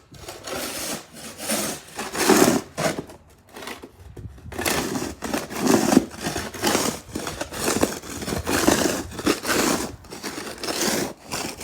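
Wide snow shovel scraping and pushing snow, with repeated irregular scraping strokes, a short pause near the middle, then strokes coming quicker.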